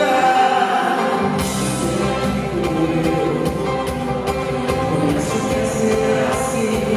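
Live band playing a pop song with voices singing. A sustained opening gives way about a second in to bass and a steady drum beat.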